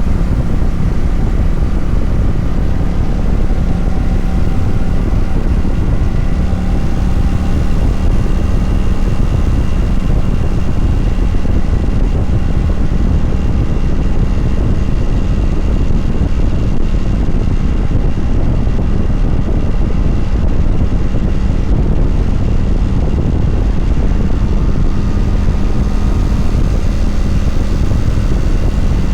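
Kawasaki Vulcan 900 V-twin motorcycle engine running steadily while the bike rides along at an even speed.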